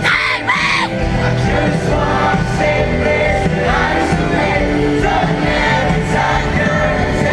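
Live pop concert: the band playing loudly with voices singing over it, and high shrieks from the audience in the first second.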